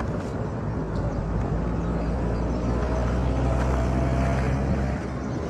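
A motor vehicle's engine running close by, louder from about a second and a half in and dropping back near the end, over a steady low rumble.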